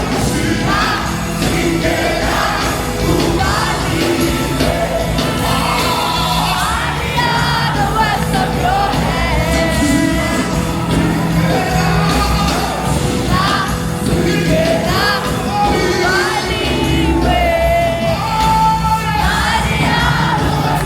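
Live gospel worship music: voices singing over a band with a steady bass line, with crowd noise beneath.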